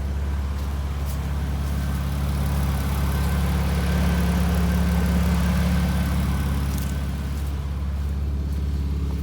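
Chrysler Town & Country minivan's 3.6-litre V6 engine idling steadily.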